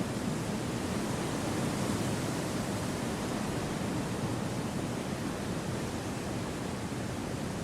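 Wind blowing through a forest as a steady, even rush with no gusts or breaks, heavier in the low range than in the hiss above.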